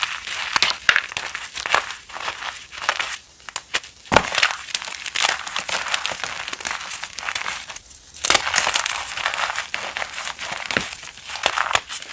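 Reformed chalk crunching and crumbling close up, in dense crisp crackles with short lulls about three and a half and eight seconds in, and one sharp crack just after four seconds.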